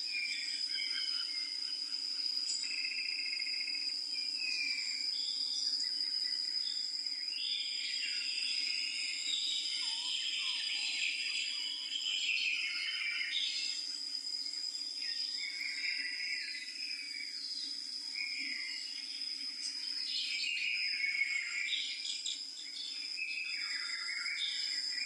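Birds singing in a busy chorus of short, varied chirping phrases over a continuous high-pitched insect trill.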